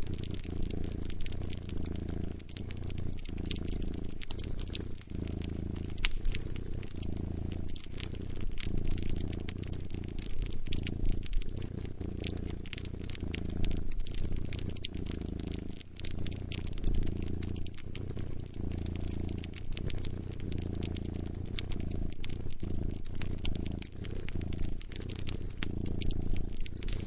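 A cat purring in long pulses, one after another, with many small crackling pops from a wood fire over it.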